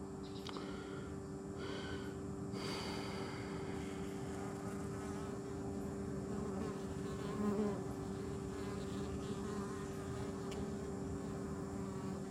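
Honeybees buzzing at the hive entrance: a steady, low hum.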